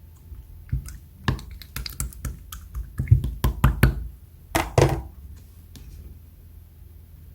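Silver marbled slime handled by hand, giving a quick run of sharp clicks and pops from about one second in, with a longer crackly squish near five seconds.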